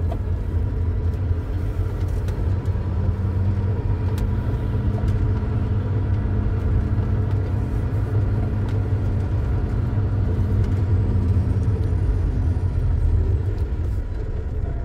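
Semi-truck diesel engine running, heard from inside the cab as a steady low rumble.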